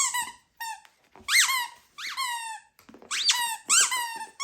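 Rubber squeaky shoe toy squeaking over and over, about six squeaks, each one rising and then falling in pitch.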